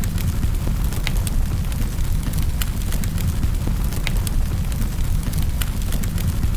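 Wood fire crackling in a fireplace: irregular sharp pops and snaps, several a second, over a steady low rumble of flames.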